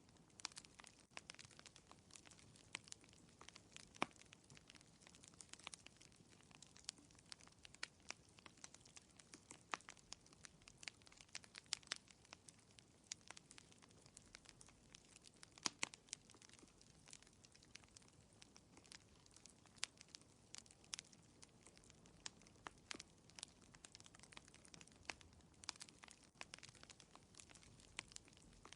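Wood fire in a fireplace crackling quietly: irregular sharp pops and snaps, a few louder than the rest, over a soft low hiss.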